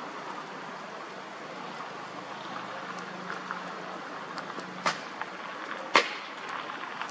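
Bonfire crackling over a steady rushing background, with scattered small pops and two loud sharp snaps about five and six seconds in.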